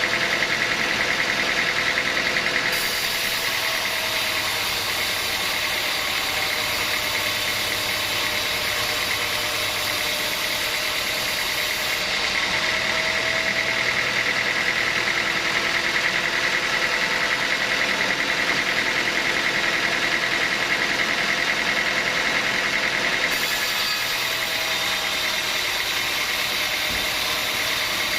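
Sawmill machinery running steadily: a constant mechanical drone with a high whine, its sound changing abruptly a few times.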